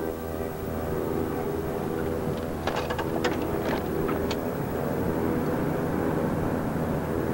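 Car engine running steadily, heard from inside the cabin, with a handful of short sharp clicks about three to four seconds in.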